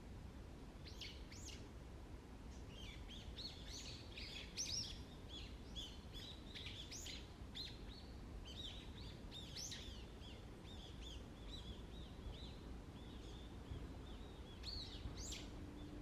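Wild birds calling: a busy run of many short, high chirps and chip notes, thickest through the middle and thinning near the end, over a low steady background rumble.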